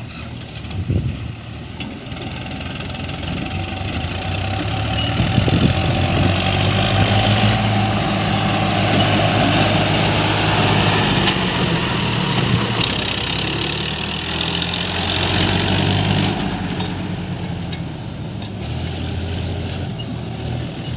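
Heavy diesel engine running, building up in speed and load from about four seconds in, then easing back toward idle after about sixteen seconds.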